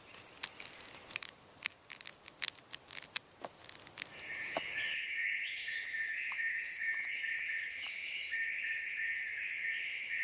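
Nature ambience: a run of sharp, scattered clicks for about four seconds, then a steady, high-pitched chirring that holds to the end.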